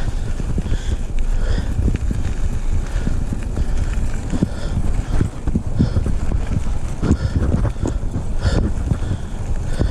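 Wind buffeting the microphone during a ride: a loud, steady low rumble, with fainter repeating sounds about once a second.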